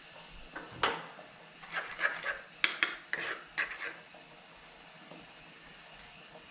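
A utensil clinking and scraping against a dish: one sharp knock near the start, then a quick run of short knocks for about two seconds, after which it stops.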